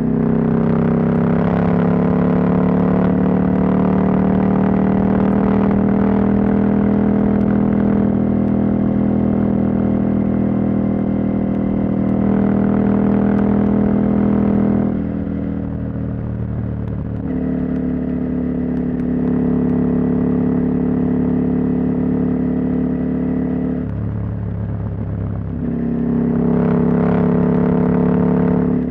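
Husqvarna Norden 901's 889 cc parallel-twin engine, its catalytic converter removed, running at steady cruising throttle. It backs off about halfway through, holds a lighter throttle, and pulls harder again near the end.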